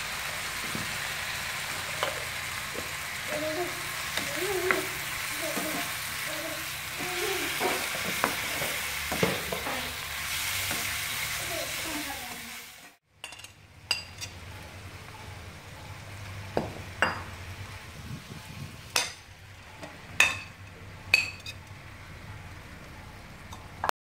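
Onions, tomatoes and green chillies with spice powder sizzling in oil in a frying pan while a metal spatula stirs and scrapes them. About halfway through the sizzle cuts off. A quieter stretch follows with a few sharp taps and scrapes of the spatula on the pan.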